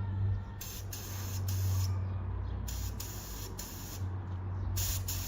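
Short hissing bursts of compressed air in quick sets of three, repeated three times, over a steady low machine hum.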